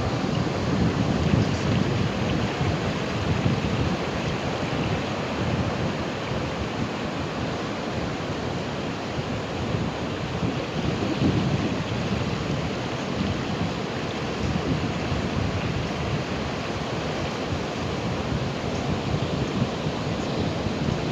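Ocean surf: waves breaking and washing in a continuous rushing noise that swells and eases.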